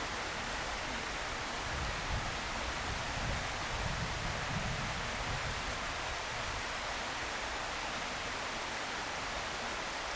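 Steady rushing outdoor noise with an uneven low rumble beneath it; no calls or other distinct sounds stand out.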